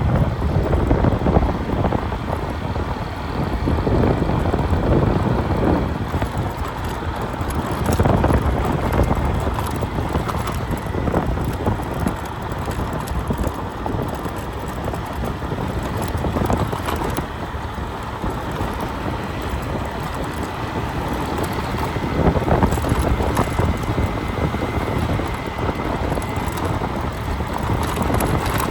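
Wind buffeting the microphone: a low rumbling noise that swells and fades in gusts.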